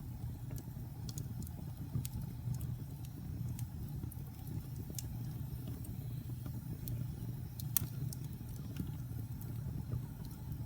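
Wood fire burning in a fireplace: irregular sharp crackles and pops over a steady low rumble of flames, with one louder pop near the eight-second mark.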